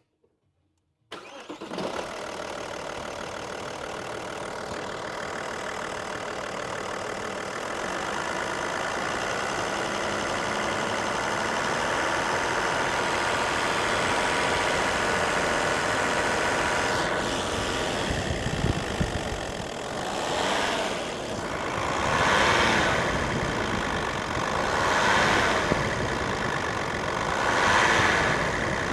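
Audi allroad's 2.5 V6 TDI diesel engine cranking and starting about a second in, then idling steadily. In the last several seconds it is revved lightly, to about 2,000 rpm, four times, each rise a couple of seconds apart.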